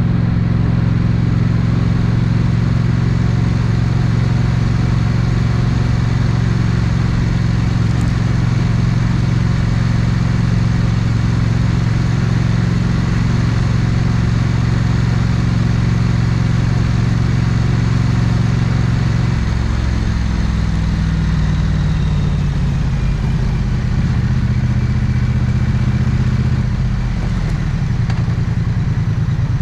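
Triumph 900cc parallel-twin motorcycle engine and exhaust running at steady revs, then about two-thirds through the note drops and wavers as the throttle is rolled off, settling to a lower, idle-like note near the end.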